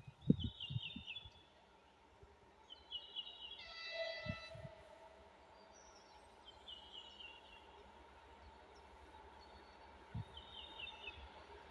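A songbird repeats a short song of quick notes that step down in pitch, about four times. A brief distant horn sounds about four seconds in.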